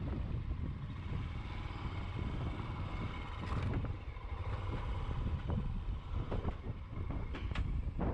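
Motorcycle running on the move, a steady low rumble of engine and wind noise on the microphone.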